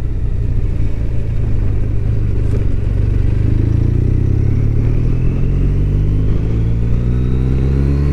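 BMW R1200RT's flat-twin boxer engine running under way, its pitch climbing gradually through the second half as the bike accelerates, with a thin rising whine above it.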